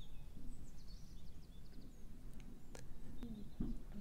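Faint birds chirping in the background, with a few light clicks in the second half as beads strung on thin thread are handled.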